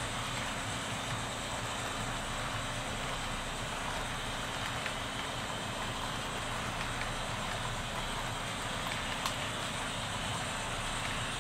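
HO-scale covered hopper cars rolling along model track: a steady rolling rumble and hiss, with a few faint clicks.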